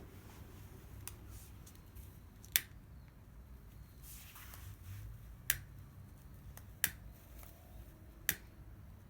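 Wood fire crackling: a handful of sharp, separate pops a second or two apart over a low steady background.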